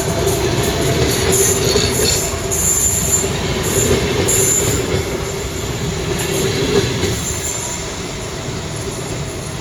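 Train moving slowly along the station tracks, its steel wheels squealing in short high bursts over a steady running noise. The squeals stop about halfway through and the train grows quieter.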